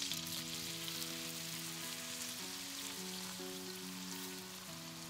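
Marinated chicken pieces sizzling in melted butter in a steel kadai, a steady even hiss. Soft background music with held notes plays underneath.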